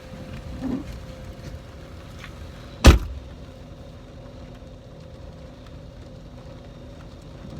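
A car door shuts with one sharp slam about three seconds in, over a steady low hum.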